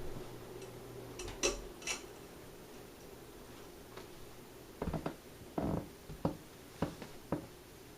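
Ceiling fan running on medium speed with a faint motor hum and irregular light clicks and taps, about eight of them, mostly in the second half.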